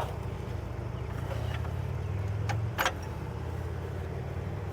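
Farm tractor engine idling steadily, with a few short sharp clicks about one and a half to three seconds in.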